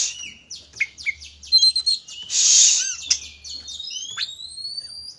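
Oriental magpie-robin (kacer) in fired-up, full song: a rapid run of varied chirps and whistles, broken by a harsh rasping burst about two and a half seconds in, with long rising whistles near the end.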